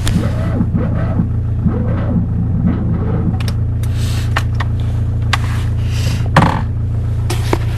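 Fiat 126's air-cooled two-cylinder engine running with a steady low rumble, with a scatter of sharp clicks and knocks in the second half. Background music plays over the first couple of seconds.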